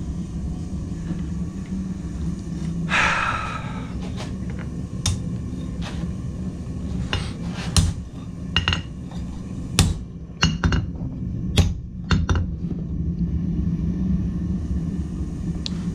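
Irregular sharp metal taps and knocks, about a dozen, from a blacksmith's hammer and workpiece, with a short scraping noise about three seconds in, over a steady low hum.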